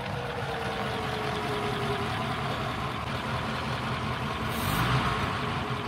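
A vintage touring car's engine running at low speed as the car rolls slowly along, with a whine that falls slowly in pitch over the first two seconds. The sound swells briefly louder near the end.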